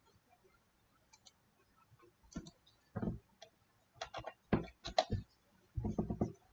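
Computer mouse and keyboard clicking in quick clusters, starting about two seconds in, with the loudest run of clicks around four to five seconds in.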